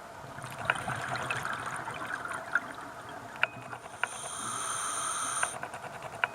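A scuba diver's regulator breathing, heard underwater: a bubbly, clicking stretch, then a steadier hiss with a high whistle that cuts off suddenly about five and a half seconds in. A few sharp clicks come near the end.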